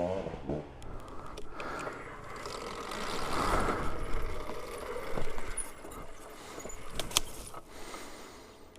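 Alta Redshift electric dirt bike being ridden: a faint electric motor whine under chain rattle and tyre noise on dirt, with a couple of sharp clicks about seven seconds in.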